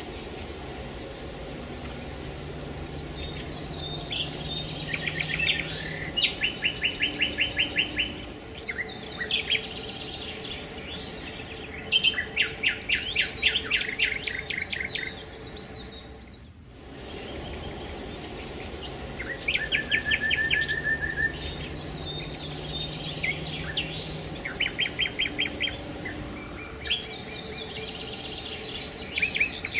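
Songbirds singing in short, rapid trilled and chirping phrases over a steady background hiss, with a brief drop in the sound about halfway through.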